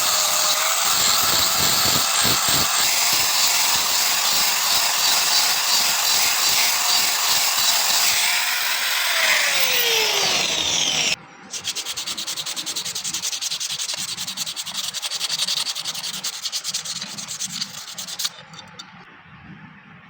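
An electric power tool grinds or sands steadily, then winds down with a falling whine a little past halfway. Then comes rapid, even rasping of sanding or filing, which stops near the end.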